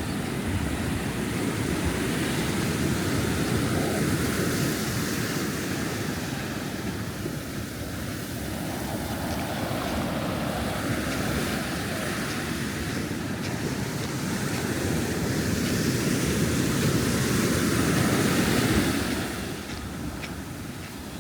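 Ocean surf breaking and washing up a sandy beach, swelling twice and easing off near the end, with some wind on the microphone.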